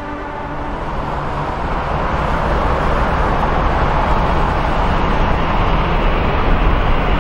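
Jet airliner engines: a loud, even rumble that swells over the first two seconds or so and then holds steady as the aircraft nears.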